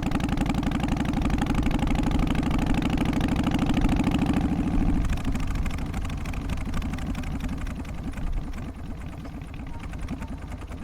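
Harley-Davidson Twin Cam 88 V-twin engine of an FXST Softail running with a rapid, even pulsing beat. About halfway through it turns quieter and duller and keeps running.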